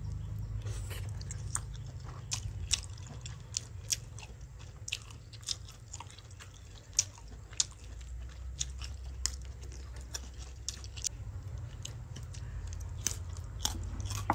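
Close-up chewing and biting of crunchy food, with irregular crisp clicks and crackles, most likely the fried pig intestine being eaten.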